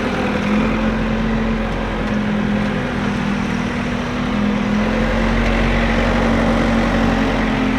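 CASE backhoe loader's diesel engine running steadily, its note shifting slightly in pitch a couple of times, with a heavier low rumble in the last few seconds.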